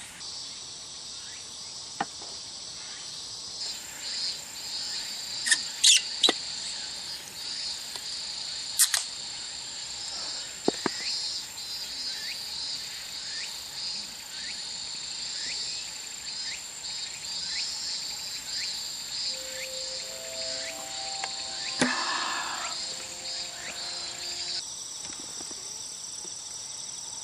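Insects chirping in a steady high-pitched chorus, broken by a few sharp knocks, the loudest near six and nine seconds in.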